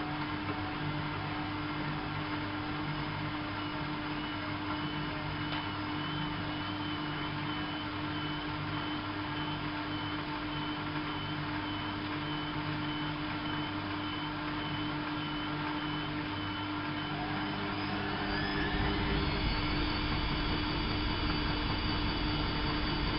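Bauknecht WAP 6460 washing machine running, a steady motor hum with a few held tones. About eighteen seconds in, the motor speeds up with a rising whine, and the machine's running gets louder and deeper.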